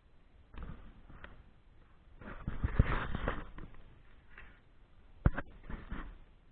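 Irregular handling noise: scattered clicks and knocks with short bouts of rustling, busiest a couple of seconds in, and one sharp click about five seconds in.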